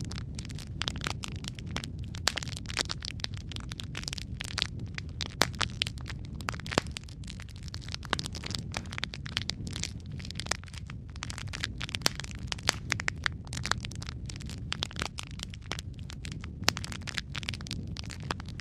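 Wood fire burning in a fireplace: a constant low rumble of the flames with dense, irregular crackles and sharp pops.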